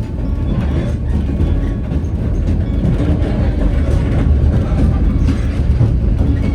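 White Pass & Yukon Route passenger train running on the rails, heard from aboard: a steady, loud rumble of the cars with faint clacking of wheels over the track.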